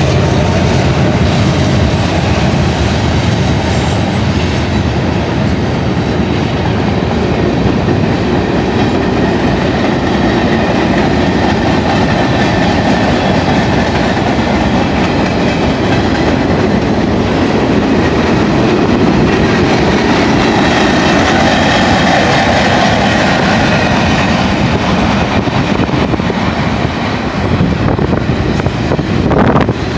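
Freight cars of a long Union Pacific manifest train, covered hoppers and tank cars, rolling past close by, their steel wheels running over the rails in a loud, steady din.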